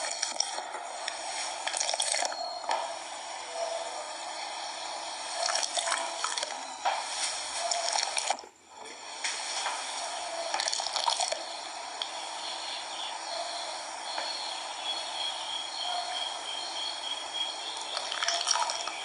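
Water running and splashing steadily, with louder swells now and then and a brief break about eight and a half seconds in.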